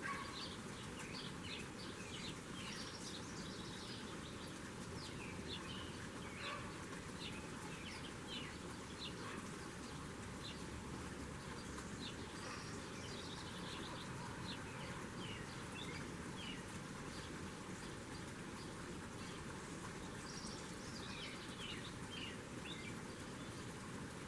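Small birds chirping, many short high chirps coming in clusters, over a steady background hiss.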